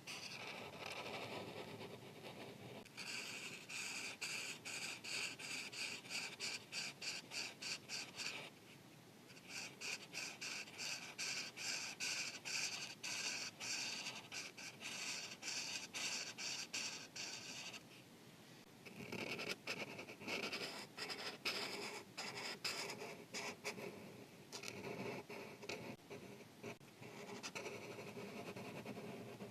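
Markers scratching over paper in quick back-and-forth coloring strokes, several a second, stopping briefly twice.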